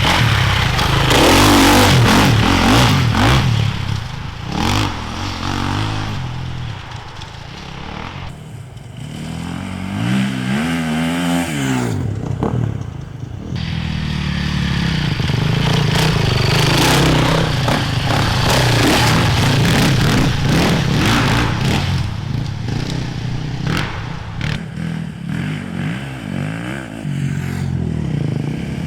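Enduro motorcycles riding past, their engines revving up and down. The sound is loudest in the first couple of seconds and again through the middle of the second half.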